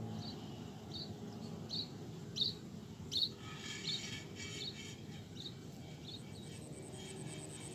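A small bird's short, high chirps, repeated about every half second, with a busier patch of chirping in the middle. Near the end a steady, high-pitched insect buzz starts up.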